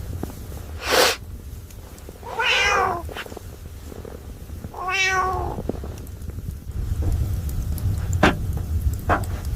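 A cat meowing twice, two drawn-out calls a couple of seconds apart, over a low steady rumble. A short rushing burst comes about a second in, and a few sharp clicks near the end.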